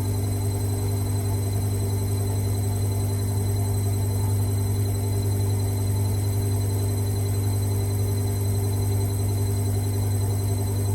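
A machine running steadily: a constant low hum with a thin high whine over it.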